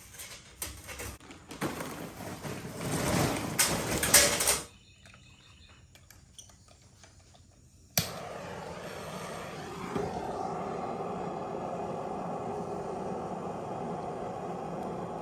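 Charcoal clattering and rustling as it is loaded into a chimney starter, for about five seconds. Near eight seconds a sudden click is followed by a steady low hum.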